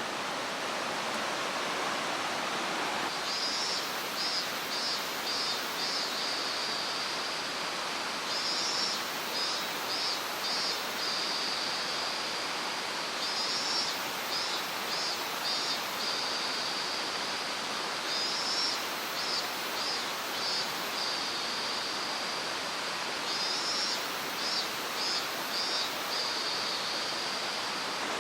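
A mountain stream rushing steadily. Over it, a high chirping call repeats about every five seconds from about four seconds in: a quick run of short pulses followed by a held note.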